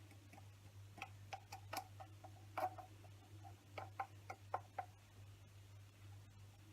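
Light clicks and taps of a tablespoon and packet as the last vanilla sugar is measured out, in two short flurries, over a low steady hum.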